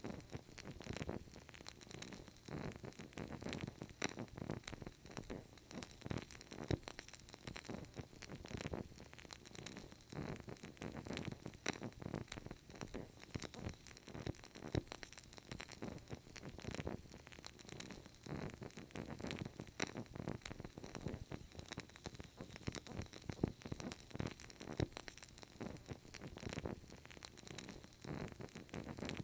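Burning candle flame crackling steadily with many small, irregular pops.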